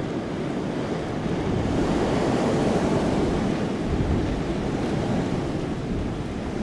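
Blizzard wind gusting hard with a dense rush like surf, swelling louder about two seconds in, then easing slightly.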